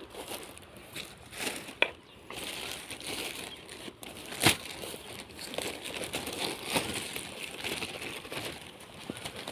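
Crinkling and rustling handling noise, crackly throughout, with a few sharp clicks; the loudest comes about four and a half seconds in.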